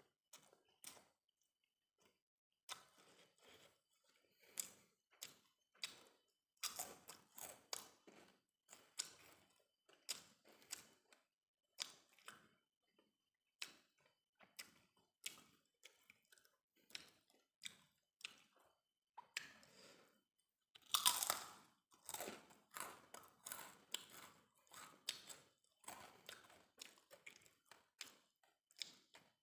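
Close-up chewing and mouth sounds of a person eating steamed rice and fried cassava crackers (opak): a run of short chewing clicks and crunches, loudest in a dense burst of crunching about 21 seconds in.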